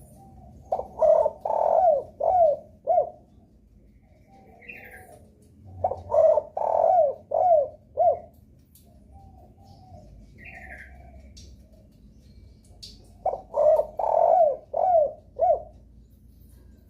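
Spotted dove (derkuku) cooing in three loud phrases of about five coo notes each, with softer cooing between them. A brief higher chirp comes twice between the phrases. This is the lure call played to set other spotted doves singing.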